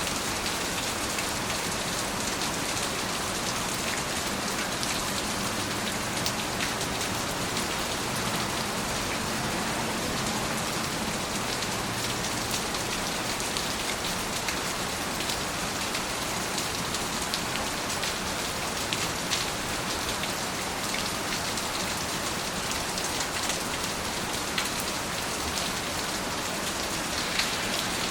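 Steady rain falling, a continuous hiss with many small drops ticking on a surface.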